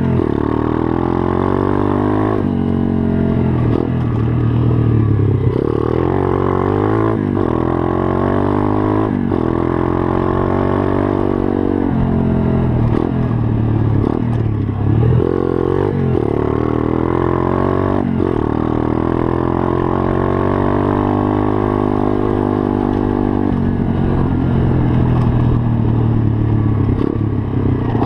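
Pit bike engine revving and being ridden, its pitch climbing and dropping back again every couple of seconds as the throttle opens and closes.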